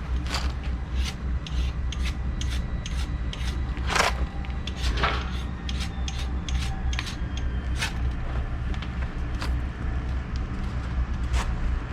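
Wood fire crackling: irregular sharp pops and snaps, a few a second, with a bigger crackle about four seconds in, over a steady low rumble.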